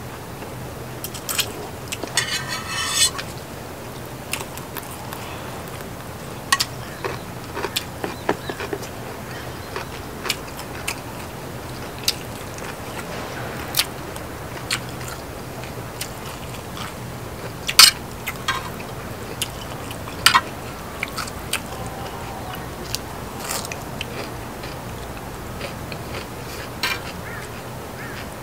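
Close-miked eating sounds of a person chewing and biting stir-fried ramyeon noodles and pork belly, with scattered short sharp clicks throughout and a brief rougher noisy sound about two seconds in.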